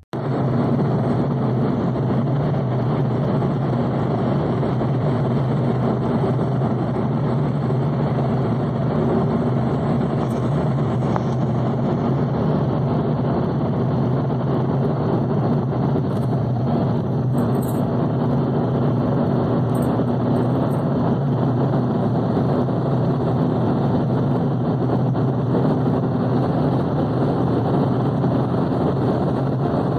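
Tata Tigor sedan running steadily at high speed, a constant engine drone mixed with road and wind noise.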